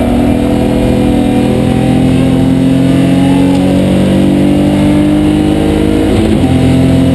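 BMW 325 race car's straight-six engine, heard from inside the cabin, pulling hard with its pitch climbing steadily. About six seconds in, the pitch drops sharply at an upshift, and the engine pulls on in the higher gear.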